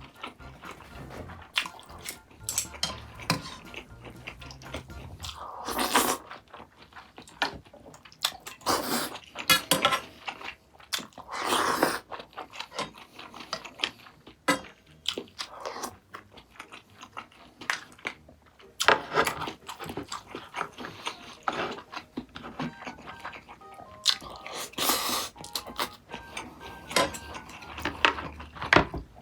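Close-miked eating: chewing and biting with irregular small clicks and several louder short noisy bursts scattered through.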